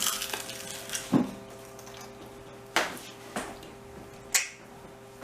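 Scattered short taps, rustles and mouth smacks of people eating with their hands off banana leaves, about five separate sounds, with a faint steady hum beneath.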